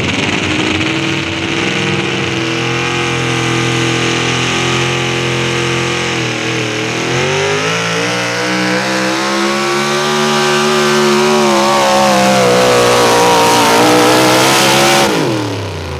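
Modified 4x4 pulling truck's naturally aspirated 650-cubic-inch big-block engine at full throttle under sled load. Its revs climb, sag about six seconds in, then climb again to a high pitch, and drop sharply just before the end as the throttle is let off.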